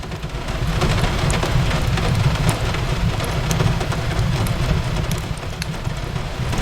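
Steady rain on a window with the scattered sharp pops and crackles of a wood fire, over a low, continuous rumble.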